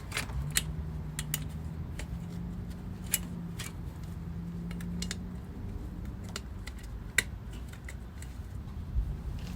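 Scattered sharp metallic clicks and clinks of hand tools and parts being handled during motorcycle rear wheel work, over a steady low hum that fades out about two-thirds of the way through.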